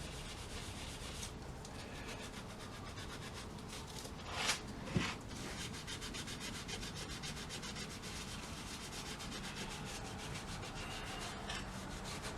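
Steady scrubbing of a rusty metal plate by hand with an abrasive cleaning paste (The Pink Stuff), a fast rubbing scour that takes the rust off. About four and a half seconds in there is a brief louder scrape, then a sharp click.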